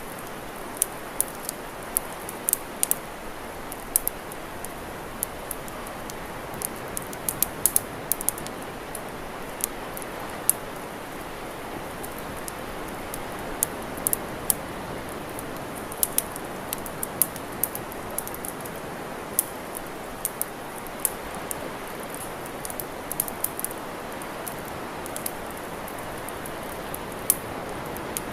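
Wood campfire crackling, with many irregular sharp pops and snaps over a steady rushing hiss.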